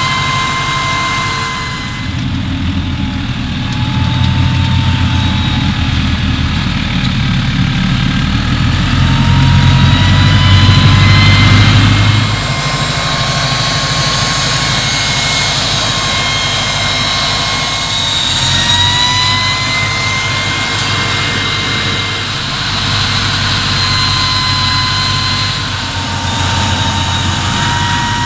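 Large diesel engine of a farm machine running under load, a deep steady rumble with a high whine above it. The whine rises in pitch about a third of the way in and again about two-thirds through. The engine is loudest just before the first third ends, then drops back.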